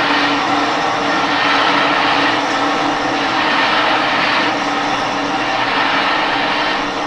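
Kayak paddling ergometer running under steady paddle strokes: a continuous mechanical whirring rush that swells and eases with each stroke, about once a second.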